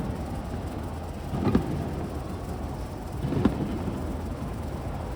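Aerial fireworks shells bursting: two booms about two seconds apart, over a steady background rumble.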